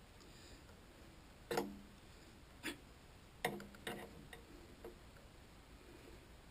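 A few light metallic clinks and knocks from metal tools or parts being handled, each with a brief ring: the strongest about one and a half seconds in, then several fainter ones at uneven spacing until about five seconds in.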